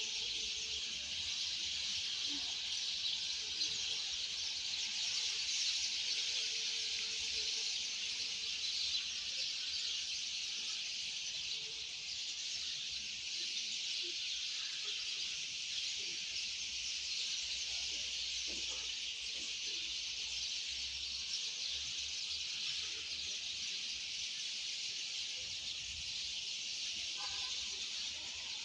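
A dense, steady, high-pitched chorus of birdsong that runs unbroken and never lets up.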